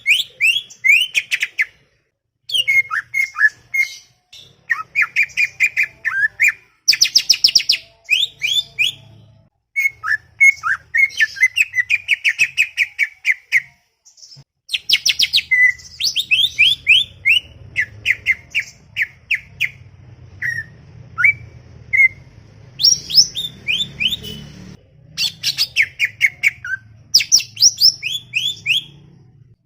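Cucak ijo (green leafbird) singing a fast, chattering song of short sweeping whistled notes, in long bursts with brief pauses between them.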